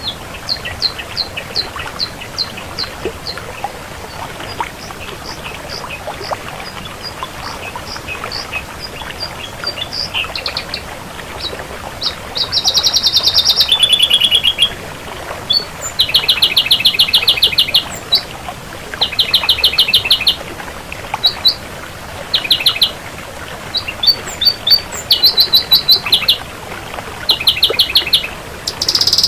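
Ashy drongo singing: a run of short, high separate notes, then, from about twelve seconds in, repeated bursts of very fast rattling trills with short pauses between them.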